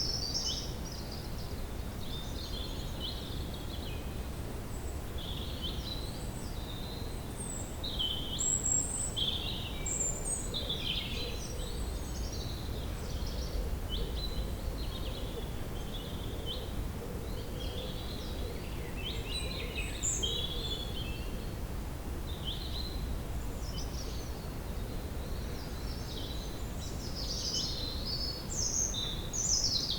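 Woodland ambience: several songbirds chirping and singing over a steady low background hush, with the calls a little busier near the end.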